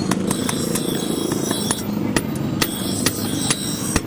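Hand hammer striking metal in quick, uneven blows, about three a second, with a faint metallic ringing between strikes over a steady low rumble.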